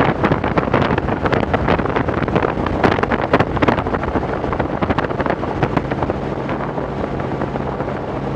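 Robinson R44 helicopter in steady flight: a constant low engine and rotor hum, with wind buffeting the microphone.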